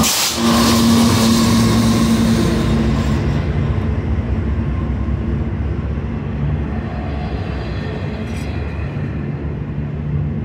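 Diesel engine of a GE C44AC locomotive running with a steady hum as it passes. The hum fades after about three seconds into the low rumble of loaded double-stack container well cars rolling slowly by.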